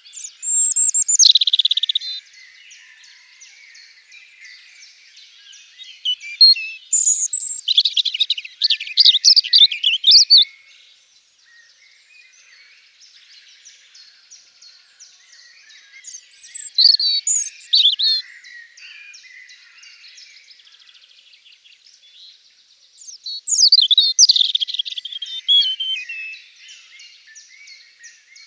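European robin singing: four bursts of high, quick, varied phrases with pauses between them, over a faint continuous chorus of other small birds.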